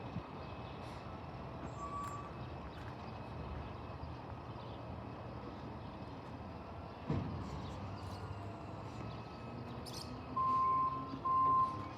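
Distant garbage truck idling with a low, steady engine rumble and a single clunk about seven seconds in. Near the end its reversing alarm starts: a loud, steady high beep sounding on and off, roughly one beep a second.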